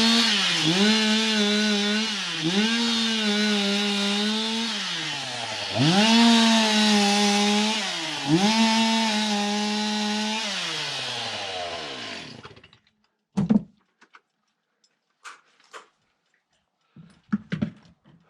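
Two-stroke Stihl chainsaw at full throttle cutting through a tree stump, its revs dipping and recovering several times under load. About twelve seconds in the revs wind steadily down and the engine stops, followed by a few short knocks.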